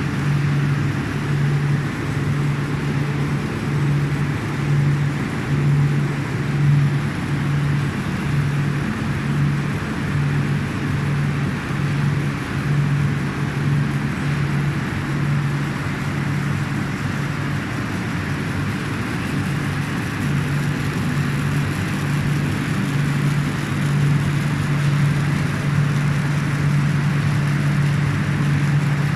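Hotmelt glue coating machine for edge banding running: steady mechanical noise with a low hum that pulses about once a second. The hum drops out for a moment a little past the middle and then resumes.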